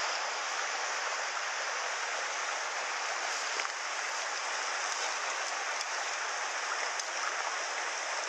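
Mountain stream water rushing steadily over rocks, an even hiss with no change in level.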